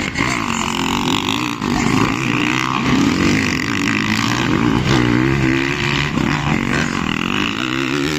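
Several motocross bikes' engines revving hard on the track, their pitch rising and falling repeatedly as the riders accelerate, shift and back off.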